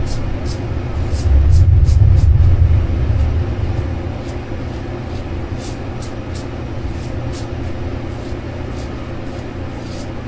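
Short, quick scraping strokes of a brass safety razor cutting through lathered stubble, repeating irregularly over a steady low hum. A louder low rumble swells about a second in and fades over the next two seconds.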